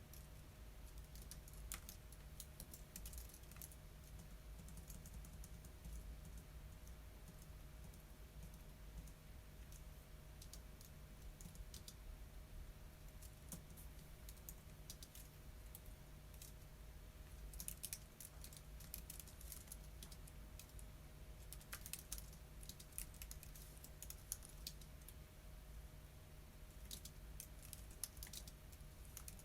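Computer keyboard typing: faint runs of keystrokes with pauses of several seconds between them, over a low steady hum.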